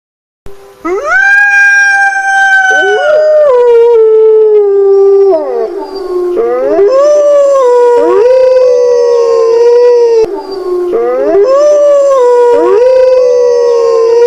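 Canines howling: long held, wavering notes that glide up and down, with several voices overlapping at times. The howling starts about half a second in and dips briefly near the ten-second mark before going on.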